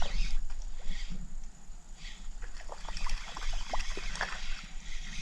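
Scattered light clicks and knocks from handling gear in a small jon boat, over a steady low rumble and faint water sounds.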